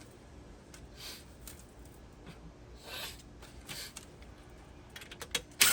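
Light handling noises: short scrapes and rustles, then a quick run of clicks near the end, ending in a sharp, loud click.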